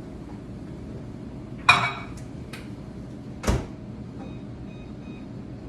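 A dish clinks against the microwave with a brief ringing, then the microwave door shuts with a thump, followed by three faint short beeps from the keypad being set.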